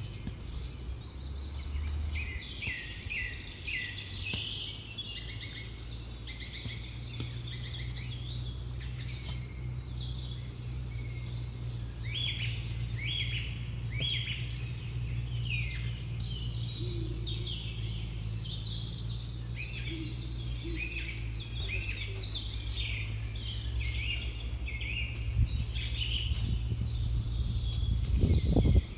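Small birds chirping, many short high calls overlapping continuously, over a steady low rumble that swells near the end.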